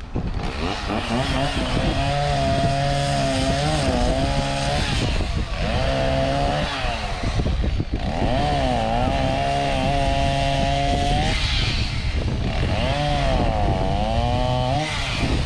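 Two-stroke chainsaw running and cutting wood in about four spells, its engine pitch sagging under load and climbing again as it frees up.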